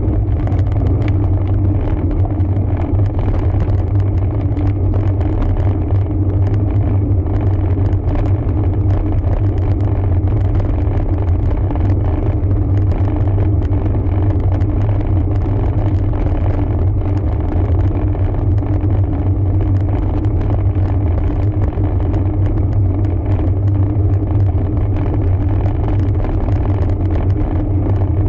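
Steady low rumble of riding noise from a road bike on the move, unbroken throughout.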